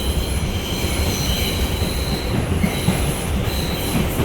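R142 subway car running on the rails, heard from inside the car: a steady low rumble with high-pitched wheel squeal tones coming and going over it.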